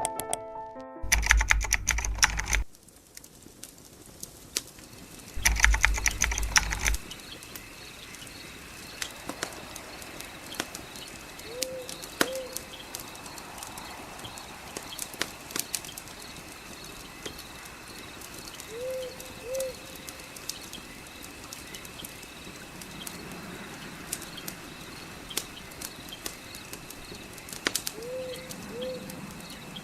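Fire crackling, with scattered pops and clicks over a steady high-pitched drone. A bird gives a short two-note call three times, about seven to eight seconds apart. Near the start there are two loud rushing bursts, each a second or two long.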